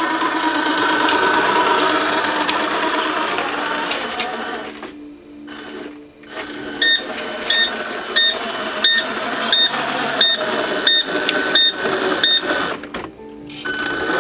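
A truck's engine idling with a steady hum that dips out briefly midway. After that comes a run of about ten short, evenly spaced electronic beeps, roughly three every two seconds, mixed with light clicks.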